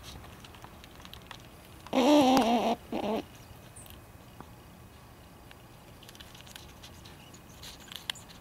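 A squirrel calling: one warbling, wavering call about two seconds in, followed at once by a shorter one. Light clicks and patter near the end as it works at the seed feeder.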